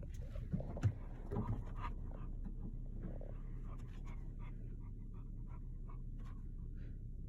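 Dog panting, with a few short clicks and knocks in the first two seconds over a steady low hum.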